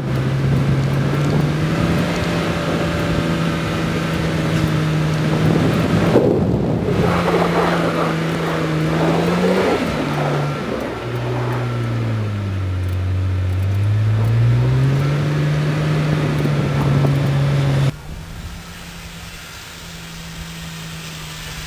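BMW 135i's turbocharged straight-six engine running hard as the car slides in circles through snow, heard from inside the cabin. The revs hold steady, drop about halfway through and climb again. Near the end it is heard from outside the car, quieter and steady.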